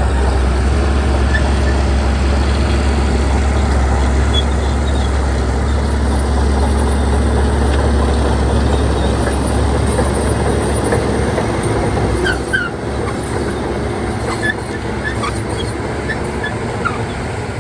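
Crawler bulldozer's diesel engine running hard with dense machinery noise, working earth. The deep engine note eases a little about twelve seconds in.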